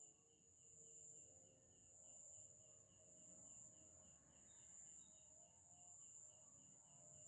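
Faint dusk insect chorus: a steady, high-pitched continuous trill with a cricket chirping evenly about three to four times a second.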